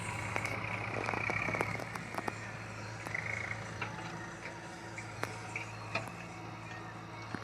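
Heavy machine's diesel engine running steadily at low revs, with scattered sharp knocks on top and a brief high whine about a second in.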